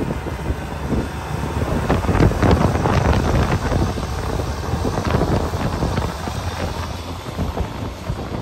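Strong blizzard wind gusting and buffeting the microphone, a surging rumbling roar that rises and falls in gusts.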